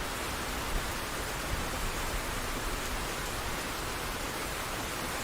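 Recorded rain falling steadily, an even hiss with no other sound over it, laid in as the track's intro.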